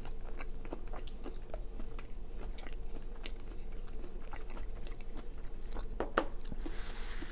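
Close-miked chewing and wet mouth clicks of a person eating a salsa-dipped mozzarella stick, with a steady low electrical hum underneath. A brief soft rustle comes near the end.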